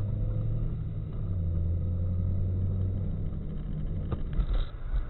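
A car's engine and road noise as a steady low drone, with a few light knocks about four seconds in.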